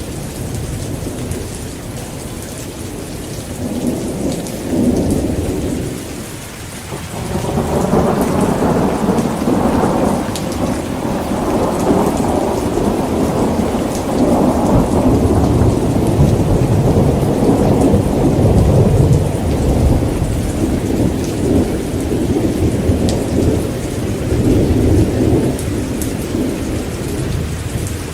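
Heavy rain falling steadily, with thunder: a short low rumble a few seconds in, then a long roll of thunder that starts about a quarter of the way through and rumbles on, swelling and easing, for most of the rest.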